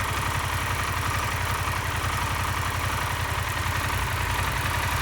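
Harley-Davidson Pan America Special's 1250 cc Revolution Max V-twin idling steadily.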